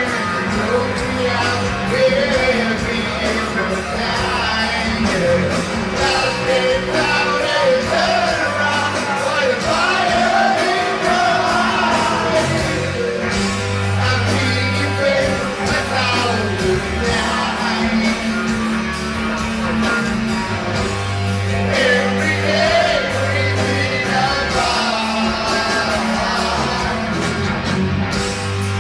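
Rock band playing live with singing, with electric guitar, bass, drums and keyboards, heard in an audience recording from the crowd.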